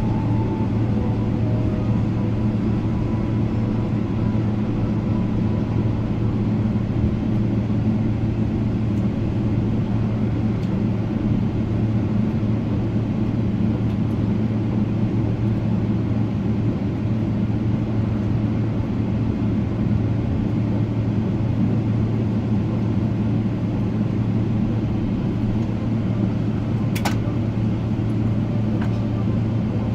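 Steady low drone inside the cabin of a Boeing 777-300ER, engines and air systems running as it taxis after landing. A brief click about 27 seconds in.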